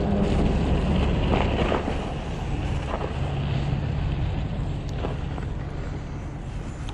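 Wind rushing over the microphone while riding a fat-tire electric bike, over a steady low rumble of tyres and passing traffic. A low engine hum holds for a couple of seconds midway.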